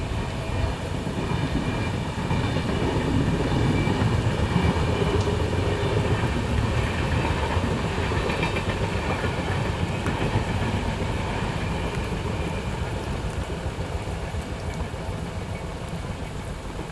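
A passing train: a steady rumble of wheels on the track with some clickety-clack, at its loudest a few seconds in and slowly fading toward the end.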